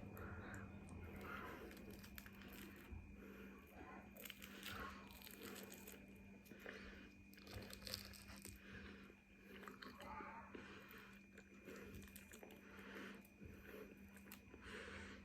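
Faint, irregular chewing and crunching of food close to the microphone, with bites and mouth sounds coming every second or so over a faint steady hum.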